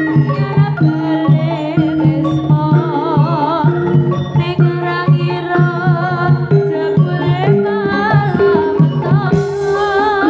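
Javanese gamelan music accompanying a jaranan dance: a steady pattern of drum strokes under ringing metallophone notes and a wavering, ornamented melody line. A brief hissing wash comes in about nine seconds in.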